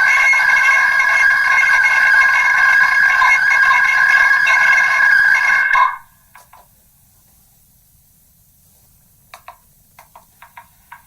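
Megaphone playing back a voice recording that has been re-recorded through megaphones many times, worn down to a loud steady ringing of a few held tones with no words left; it cuts off suddenly about six seconds in. After that come a few faint clicks, and a run of clicks near the end.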